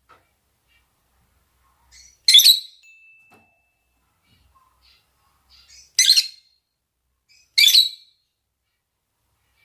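Lovebirds calling: three short, shrill shrieks, the first about two seconds in and the last two close together near the end, with faint chirps between. These are the birds' mating calls.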